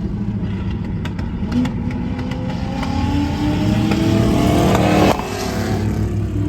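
A vehicle's engine revving up, its pitch climbing steadily for about three and a half seconds, then dropping off abruptly a little after five seconds in.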